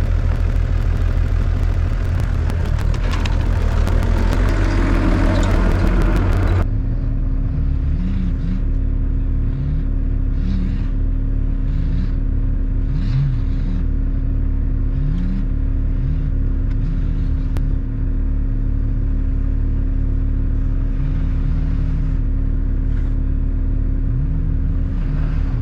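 Heavy vehicle engine running loudly for about six seconds, then, after an abrupt change, a steadier lower running sound with a constant hum and short recurring squeaks.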